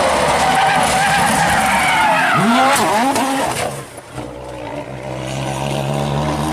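Rally car engine at high revs, its pitch swooping up and down sharply. About four seconds in it drops to a quieter, steadier engine note.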